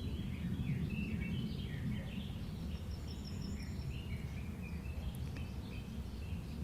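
Small birds chirping in quick, broken notes over a steady low rumble of outdoor noise.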